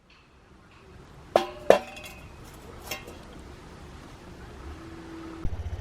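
Two sharp, ringing clinks of hard items knocked together, the second the loudest, and a fainter clink about a second later. Near the end a motorcycle engine comes on and runs at idle with a low, even pulsing.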